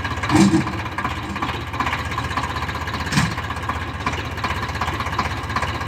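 Eicher 557 tractor's diesel engine running steadily at a low speed, with two brief louder knocks, about half a second in and about three seconds in.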